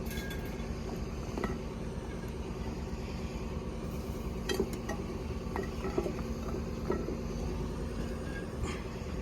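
Scattered light clinks and knocks of kitchen items being handled during food prep, over a steady low hum.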